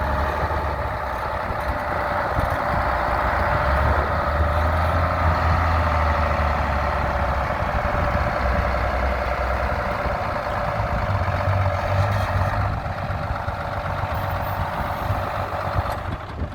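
GMC Brigadier grain truck's engine idling steadily.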